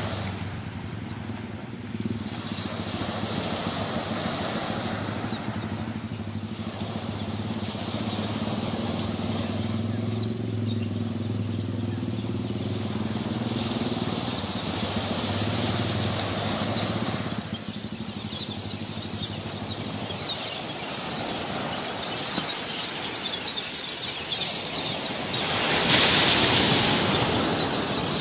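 An engine running steadily, with a low hum that fades out about two-thirds of the way through. Under it is a rushing noise of wind or surf that swells briefly near the end.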